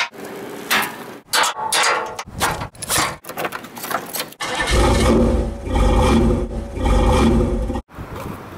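A few seconds of short clattering and scraping sounds broken by abrupt cuts, then a loud engine rumbling for about three seconds before it cuts off suddenly.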